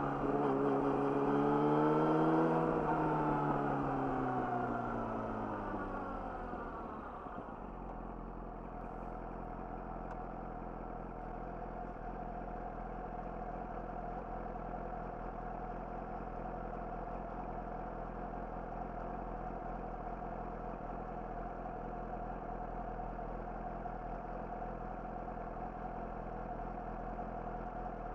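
Yamaha YZF-R6's inline-four engine through an Akrapovic slip-on exhaust, its revs rising briefly and then falling away over the first several seconds as the bike slows. It then settles into a steady idle for the rest.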